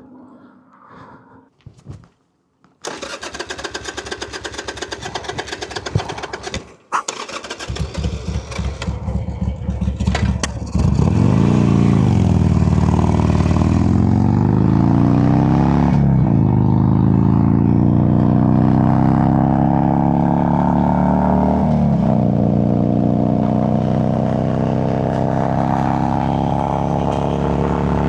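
Harley-Davidson Sportster V-twin cranking on its electric starter in two tries, catching about eleven seconds in and then running loud, revved up and down several times. The engine is being restarted on the fuel reserve after running out of gas.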